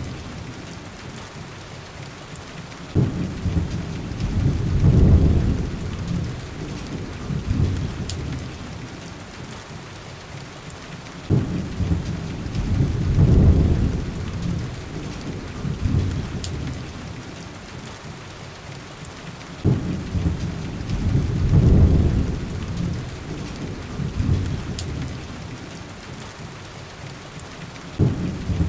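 Heavy rain hissing steadily. A low rumble like distant thunder starts suddenly and swells for a couple of seconds, about every eight seconds. A few faint fireplace crackles sound now and then.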